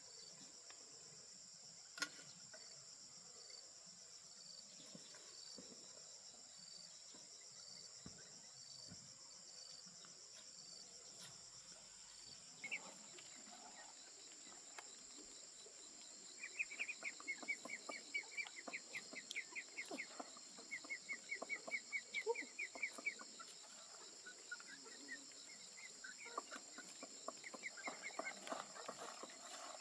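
Faint outdoor insect chorus, a steady high-pitched buzzing, with a short chirp repeating about twice a second in the first part. From about halfway, bird calls come in: rapid trills repeated again and again, growing louder near the end.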